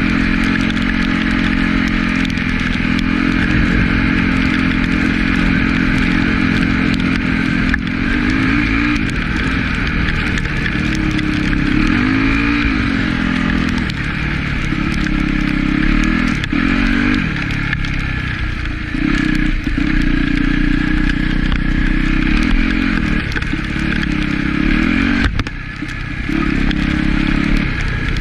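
Yamaha YZ dirt bike engine running under load while ridden, its pitch holding steady and then rising and falling again and again as the throttle is worked, with a short drop in revs near the end.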